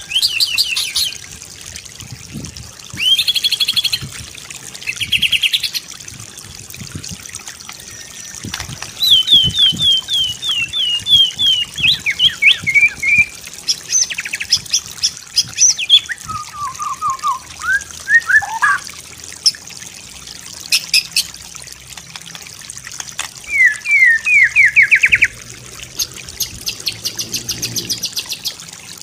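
White-rumped shama (murai batu) singing a varied song of separate phrases: quick trills, runs of falling notes, lower whistles, and a fast high trill near the end. A steady trickle of water runs underneath.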